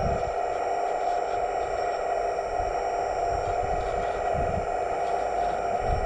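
Electric hydraulic pump of a scale RC excavator running with a steady whine, with occasional low bumps from the machine working.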